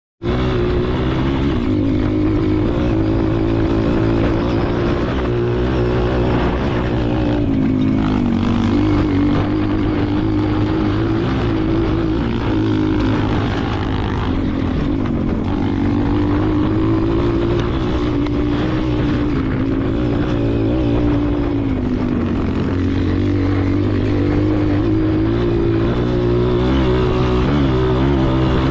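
Enduro dirt bike engine running continuously, its pitch rising and falling every couple of seconds as the throttle is opened and closed.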